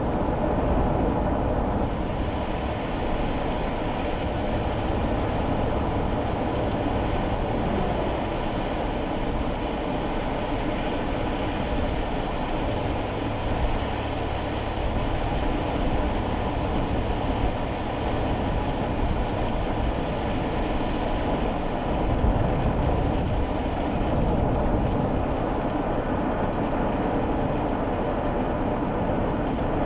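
Cabin noise inside a kei car driving on a wet road: steady tyre and road noise with the small engine running underneath.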